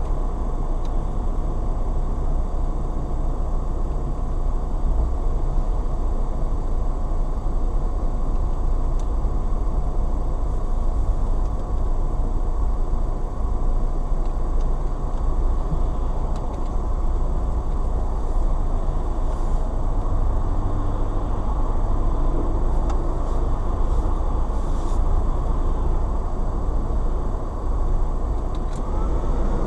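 Steady road and engine noise of a car being driven, even in level throughout, with no impact.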